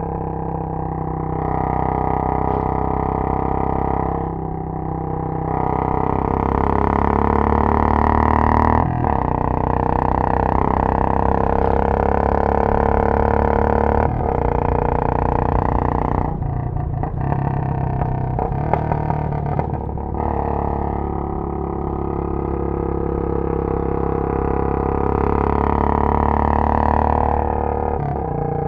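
Royal Enfield Bullet 500's single-cylinder engine through a Punjab long bottle silencer, on and off the throttle while riding: the note climbs and falls several times as the bike accelerates and eases off. A few sharp exhaust crackles come during one spell of easing off, about two-thirds of the way through.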